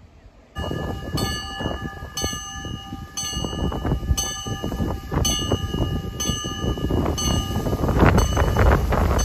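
Level crossing warning bell ringing about once a second over a low rumble of an approaching train, the rumble growing louder near the end.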